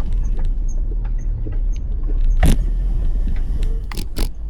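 Wind rumbling on the microphone during a ride, with a few sharp rattling clacks: the loudest about two and a half seconds in, and two close together near the end.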